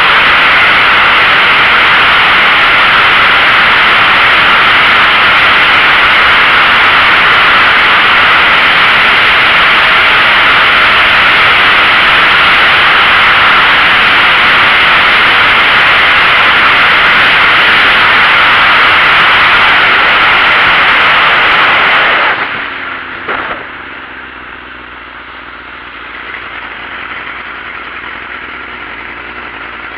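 Loud, steady wind rush over the microphone of a sport bike at speed. About 22 seconds in it drops away and the engine note falls as the bike slows, then the engine runs quietly at low revs.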